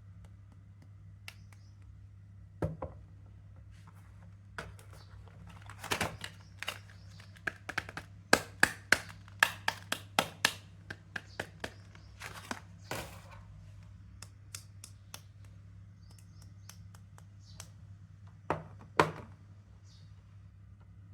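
Soap wrappers and packaging being unwrapped and tapped by hand: crisp crinkles and sharp clicks, scattered at first, then a quick run of loud ones, about three a second, in the middle, over a low steady hum.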